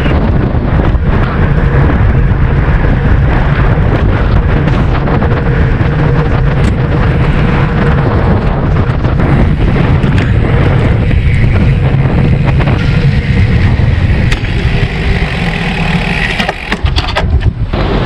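Steady, loud wind rushing over the microphone while riding a road bike at speed.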